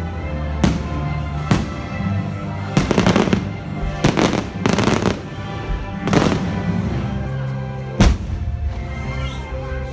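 Fireworks shells bursting over music with long held notes: a string of sharp bangs and crackling bursts, the sharpest and loudest bang about eight seconds in.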